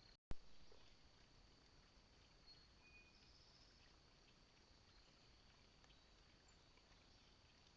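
Near silence: faint outdoor ambience at a bird feeder camera, broken by one sharp click about a third of a second in where the recording cuts, with a few faint short high notes afterwards.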